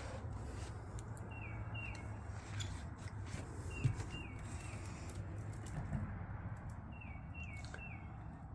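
A bird calling: short downward-sliding chirps in groups of two or three, repeated every few seconds, over a steady low rumble.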